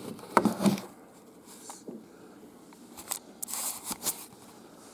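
A Ty cardboard swing tag being handled and opened by hand: a few sharp clicks, then short papery rustles about three to four seconds in.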